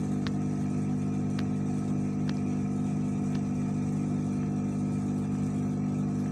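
Steady mechanical hum from electric workbench equipment, unchanging throughout, with four faint light clicks in the first half.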